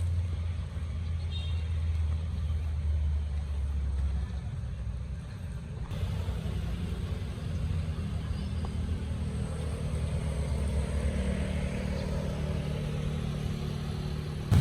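Motor vehicle engines running steadily with a low hum at a level crossing. The sound changes abruptly about six seconds in, and after that the engine hum sits slightly higher in pitch.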